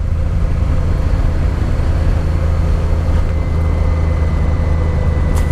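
Honda Deauville motorcycle's V-twin engine running steadily while riding, with rushing wind noise over it.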